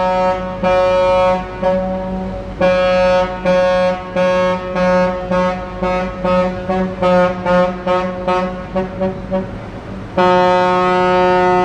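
Motor ship's whistle sounding a long series of farewell blasts. A few longer blasts lead into a rapid run of short toots, then one long held blast starts about ten seconds in.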